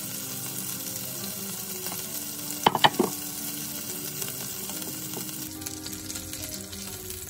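Chicken kebabs on wooden skewers sizzling in shallow oil in a frying pan, steady throughout. A brief clatter of a few sharp knocks comes a little before three seconds in, as a kebab is lifted out.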